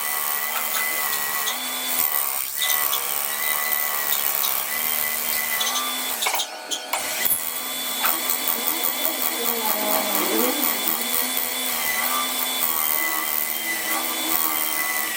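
Machine tool cutting metal with a carbide cutting insert, a steady whine with a high ringing tone and a short break about halfway through.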